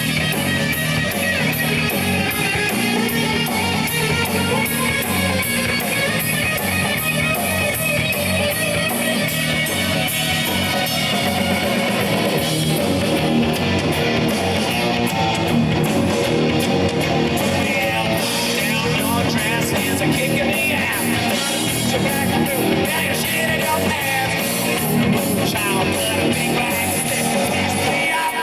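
Live punk rock band playing at full volume: electric guitar, bass and drum kit driving a steady beat.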